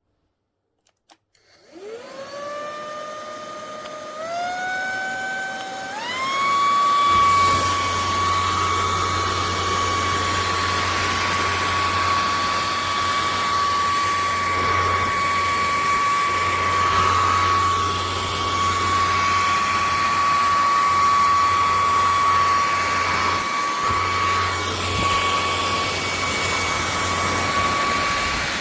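ElecKeys K10 cordless stick vacuum cleaner switched on with a click, its motor whining up to speed and then stepping up twice more through higher power settings. It then runs steadily at high power with a high whine and air rushing, and a low hum joins about seven seconds in.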